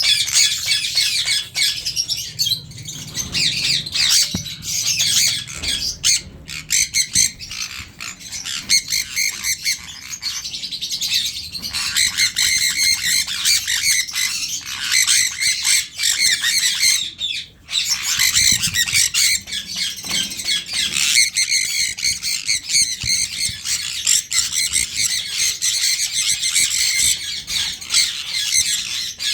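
Sun conure squawking and chattering in shrill, rapid calls almost without a break, with one short lull a little past halfway.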